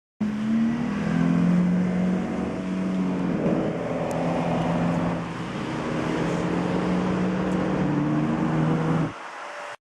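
Sports-car engine running at steady low revs, its pitch shifting a little partway through. It drops off sharply near the end.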